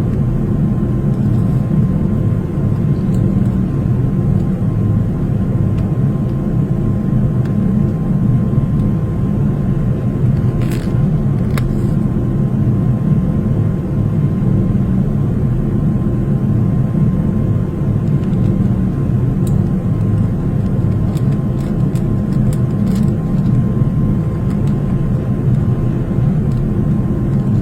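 Airliner cabin noise: a steady, low engine-and-air drone, with a couple of faint clicks about halfway through.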